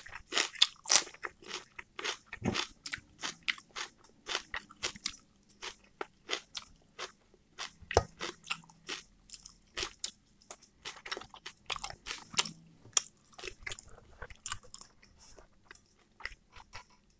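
Close-miked eating: a steady run of sharp, crisp crunches and wet mouth clicks as a person bites and chews raw red onion along with fried chicken and potatoes.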